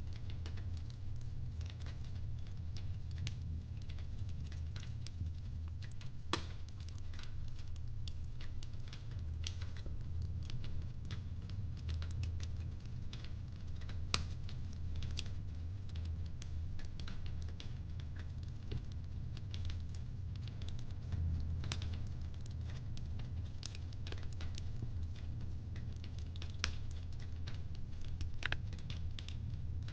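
Wood fire crackling in a fireplace: scattered, irregular pops and snaps over a steady low rumble.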